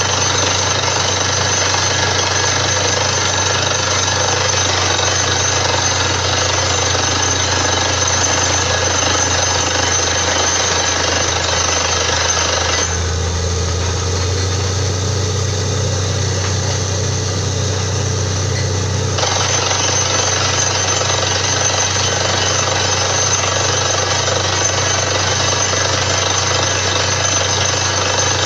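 Borewell drilling rig running at full work, a loud steady percussive drilling racket over a low engine drone. About halfway through, the higher rattle eases for several seconds while the drone stays, then picks up again.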